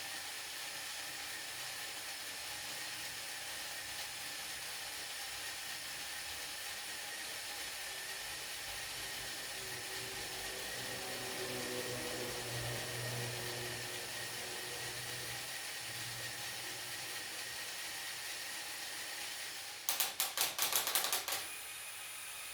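LEGO Technic crane mechanism under load: a steady whirring hiss, with a low hum swelling in the middle. Near the end comes a rapid burst of about ten sharp plastic clicks over a second and a half.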